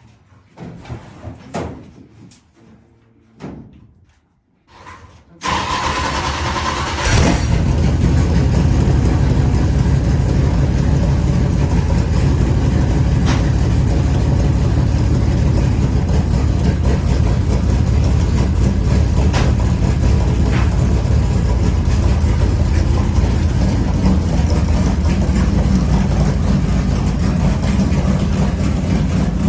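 Dirt late model race car's V8 engine: a few knocks and clicks, then the starter cranks about five seconds in, and the engine catches a second and a half later and runs loud and steady.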